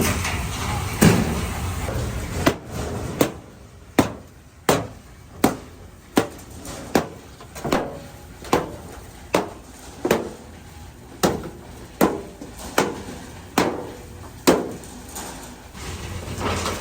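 Hammer blows on metal: a steady series of about seventeen sharp strikes, roughly one every three-quarters of a second, starting a couple of seconds in.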